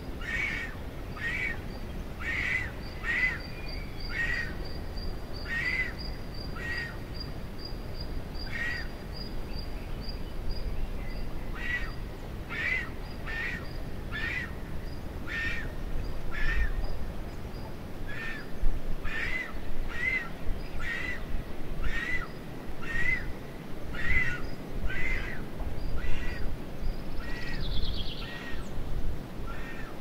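Short harsh bird calls repeated about once a second over a low wind rumble. A thin, steady high tone sounds for several seconds near the start.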